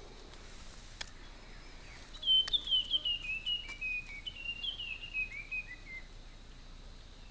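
A wild bird singing two quick runs of short whistled notes, each run stepping down in pitch, starting about two seconds in and lasting about four seconds, over faint forest background hiss.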